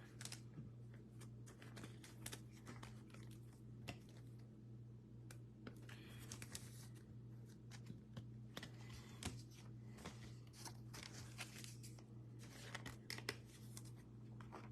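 Faint crinkling and scratchy rustles of baseball cards being slid into thin plastic card sleeves, with scattered small clicks, over a steady low hum.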